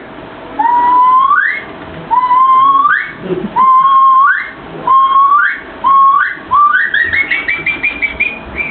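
A person whistling an imitation of a curlew's call: about six drawn-out notes, each holding steady and then sweeping sharply up at the end, followed near the end by a quickening run of short rising notes like the curlew's bubbling trill.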